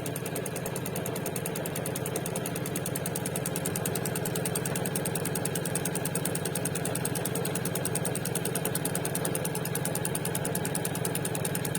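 Computerized embroidery machine stitching at speed: a steady, fast, even mechanical chatter.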